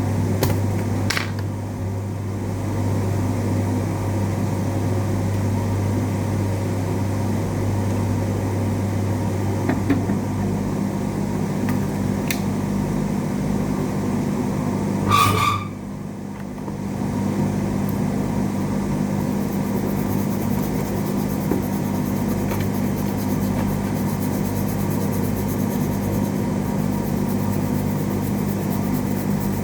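A steady low hum, with a few faint clicks and a short beep-like tone about halfway through.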